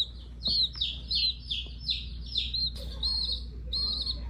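A bird chirping repeatedly in quick, short, high calls, about three a second, over a low steady hum.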